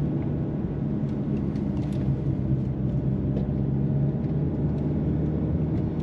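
Car engine pulling steadily uphill in second gear, a steady low drone over road rumble.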